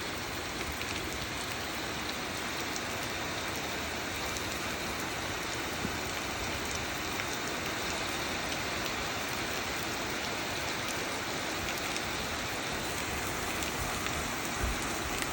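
Heavy rain pouring down, a steady, even hiss of rainfall coming down hard.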